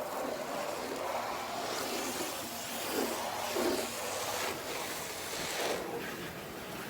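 Water from a garden hose spraying onto a car's bodywork while the car is rinsed: a steady hiss and splatter with small swells.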